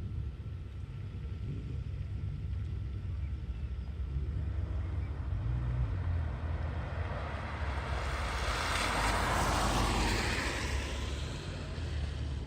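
A vehicle passing close by. Its noise builds up, peaks about nine seconds in and fades, over a steady low rumble.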